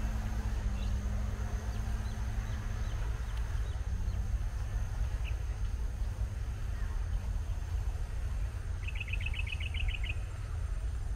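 Outdoor ambience with a steady low rumble. A bird gives a single chirp about halfway through and then a quick trill of about ten rapid notes near the end.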